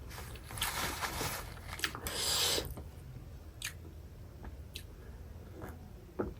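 Close-miked chewing and eating sounds of a person eating a boiled egg. A run of louder chewing bursts comes in the first three seconds, then quieter chewing with a few sharp mouth clicks.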